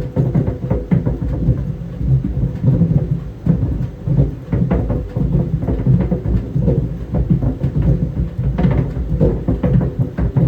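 Tennis balls tumbling in a running clothes dryer: a steady low drum rumble with irregular thuds as the balls drop against the drum, several a second.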